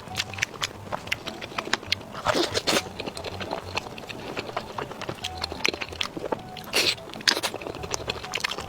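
Close-miked eating: biting and chewing skewered food (chuan chuan), an irregular run of crunchy, wet clicks and smacks, a few louder bites among them.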